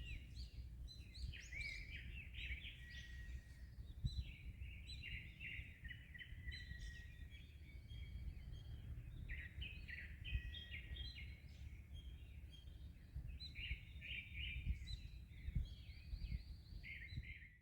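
Several songbirds singing at once in a continuous chorus of overlapping warbled and whistled phrases, over a steady low rumble. The sound fades out at the very end.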